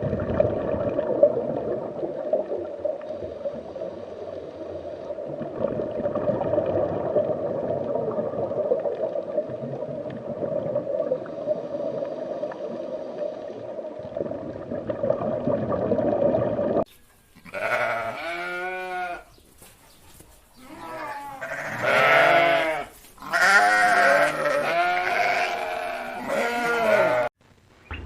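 Sheep bleating: several loud, wavering calls in the second half, after a long stretch of dense, steady animal noise.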